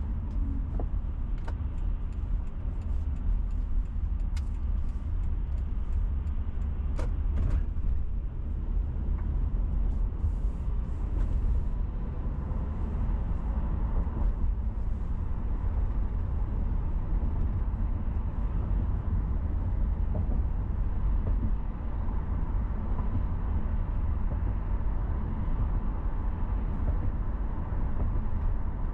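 Car driving on city roads: a steady low rumble of road and engine noise, with a few faint clicks in the first several seconds.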